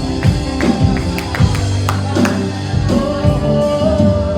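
Live gospel worship music: a band playing with a beat, with a long note held from about three seconds in.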